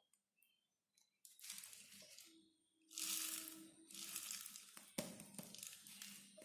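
Faint, irregular crinkling and rustling of small scraps around a homemade bottle vacuum cleaner model, with a short low hum about two seconds in and a sharp click about five seconds in.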